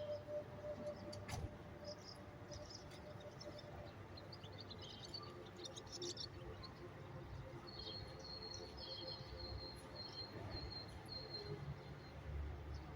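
Faint outdoor ambience: small birds chirping in short high notes, then a steady high trill from about the middle to near the end, over a low rumble.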